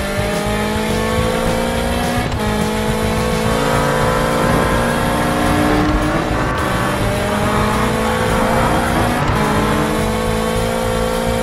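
Race car engine sound effect accelerating through the gears: a steady engine note whose pitch climbs slowly, then drops back at each shift, three times.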